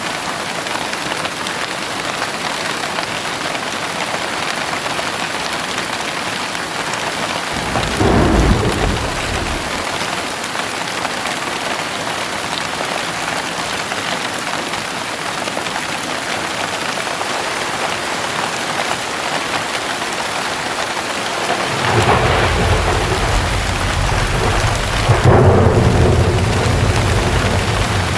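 Heavy rain falling steadily, with thunder: a short low rumble about eight seconds in, then a longer, louder rumble of thunder that builds from about 22 seconds and fades near the end.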